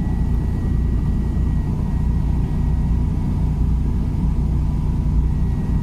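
Toyota MR2 engine running steadily with a low, even rumble. The exhaust is blowing: it leaks at the rear back box.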